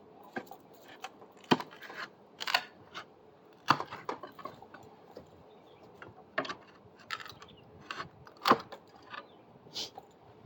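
Irregular clicks, knocks and scrapes of hand tools working on the wooden framing and screws of a deck being taken apart, with a few sharper knocks standing out.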